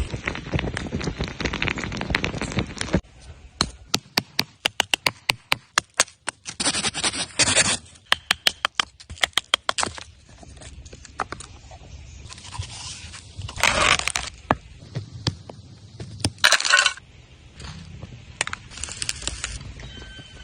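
Scraping for about three seconds, then a quick run of sharp taps or clicks lasting several seconds, followed by a few short, separate scrapes.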